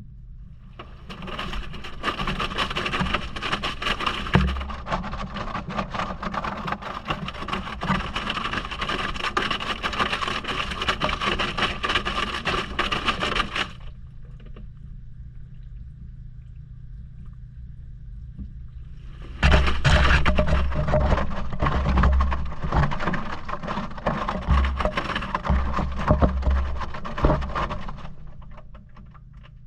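Maytag washing machine mid-wash, heard from inside the drum: water and wet laundry churn and slosh for about twelve seconds, pause for about six while a steady motor hum carries on, then churn again for about eight seconds. There are low thumps during the second stretch.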